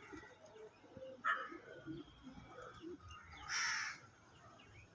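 A crow cawing: a short call about a second in and a louder, longer, harsh caw past the middle, over the chatter of many small birds.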